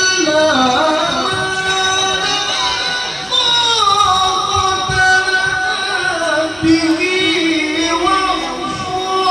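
A male qari reciting the Quran in the melodic tilawah style, drawing a syllable out into long held notes with wavering ornamental turns and slow slides in pitch.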